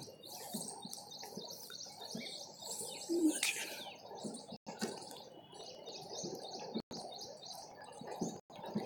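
Birds chirping faintly in the background, many short high chirps, with a single low note about three seconds in.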